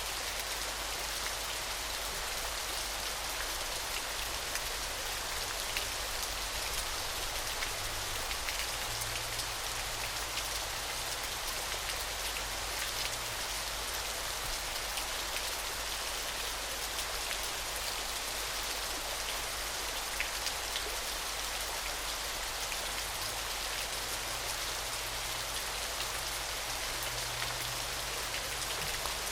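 Falling water: a steady splashing hiss flecked with the fine patter of countless drops, even in level.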